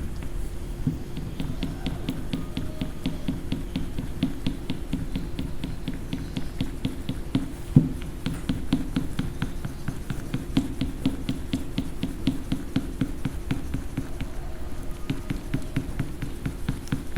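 Rapid back-and-forth scribbling of a coloring tool on paper, an even run of scratchy strokes about five a second, with a single sharper knock about eight seconds in.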